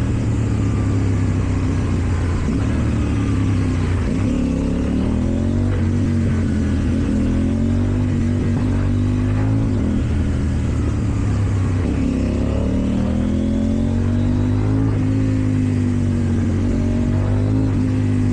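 KTM Duke 790's parallel-twin engine through an Akrapovič exhaust, running under way with its pitch repeatedly dropping and climbing again as the rider rolls off and opens the throttle in traffic.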